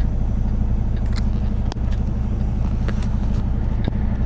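Semi truck's diesel engine running steadily at low revs, a constant low hum with a few faint clicks over it.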